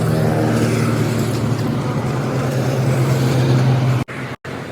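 A vehicle engine running with a steady low hum that grows a little louder, then cuts off abruptly about four seconds in.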